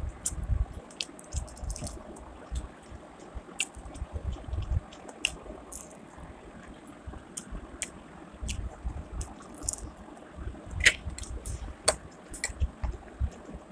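Close-up eating sounds: chewing chow mein noodles and a chicken pakora, with soft irregular chewing thumps and wet mouth clicks and smacks now and then, two sharper ones near the end.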